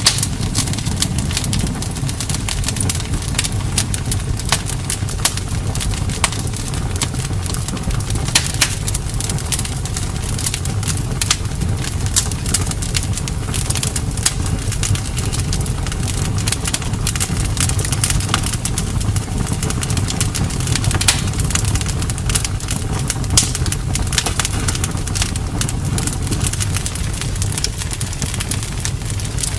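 Wood campfire burning, with a steady low rumble and frequent irregular sharp crackles and pops.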